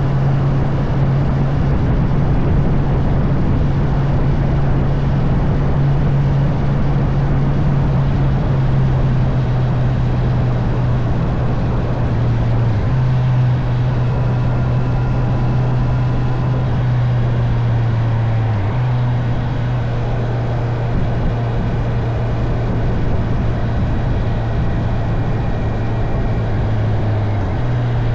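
Honda CB650R inline-four engine running steadily under way, over rushing wind and road noise. The engine note drifts slowly lower and dips briefly three times.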